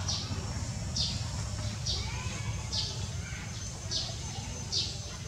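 A bird calling over and over, a short high note falling in pitch, repeated about once a second. Underneath are a thin steady high tone and a low rumble.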